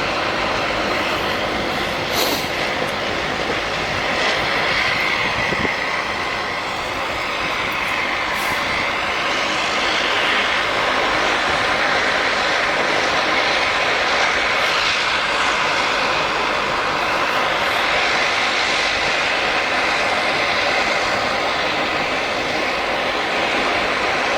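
Aircraft engines running steadily: a continuous rush of engine noise with a high whine that drifts slightly in pitch.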